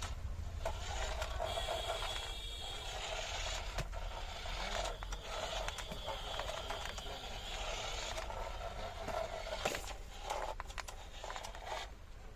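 Toy jeep driving, a small electric motor whirring and its wheels scraping over the ground, with scattered knocks.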